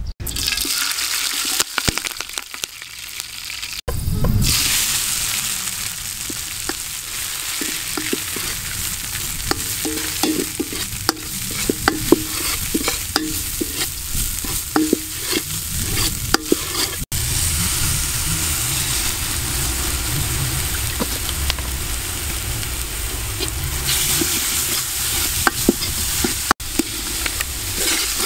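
A green paste sizzling in hot oil in a metal pan, stirred with a metal spatula that scrapes and clicks against the pan.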